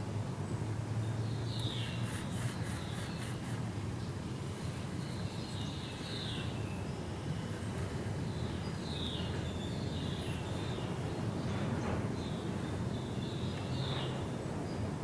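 Steady low background hum with an even hiss, and short high chirps that sweep downward every couple of seconds.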